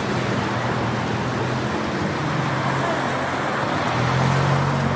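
Road traffic passing by: a steady wash of tyre and engine noise, with a vehicle's engine hum swelling about four seconds in as it passes close.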